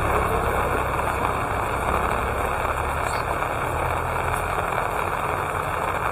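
Steady rain falling, with the low rumble of a motor vehicle's engine beneath it that eases off over the first second or two.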